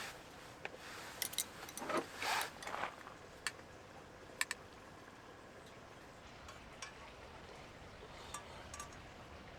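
Scattered light clicks and clinks over a faint steady hiss, with a short louder cluster of handling noise about two seconds in.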